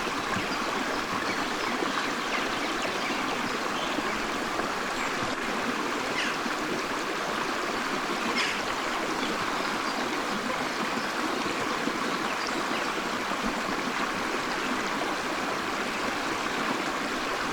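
Forest stream running, a steady rush of flowing water, with a few faint, brief bird chirps over it.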